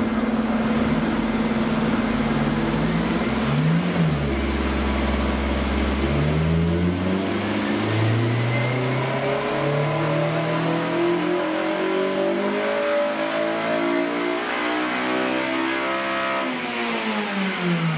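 2008 Honda Civic Si's 2.0-litre four-cylinder VTEC engine on a chassis dyno. About three seconds in there is a quick blip of the throttle. Then comes a full-throttle pull, the revs climbing steadily for about twelve seconds to around 8,000 rpm, and they fall away as the throttle closes near the end.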